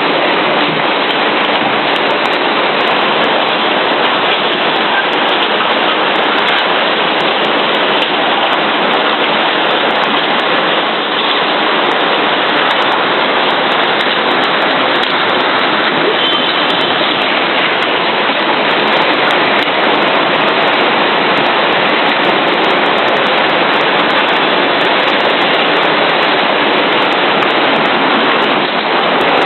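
Loud, steady rush of water, an even hiss that does not let up.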